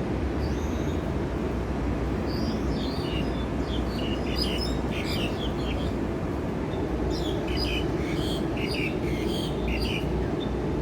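Many small birds chirping in two busy flurries, over a steady low background rumble.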